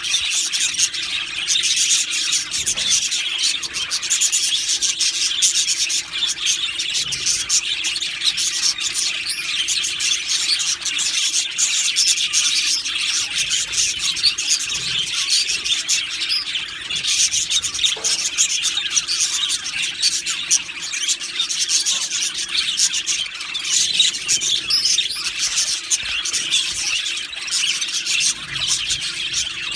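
A flock of budgerigars chirping and chattering together, many overlapping high calls. A faint steady hum sits underneath.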